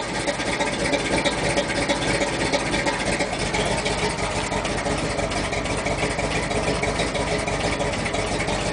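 Chevrolet 396 big-block V8 idling steadily on cast-iron exhaust manifolds, with the lumpy, loping idle of a performance Comp cam at about 700–800 rpm.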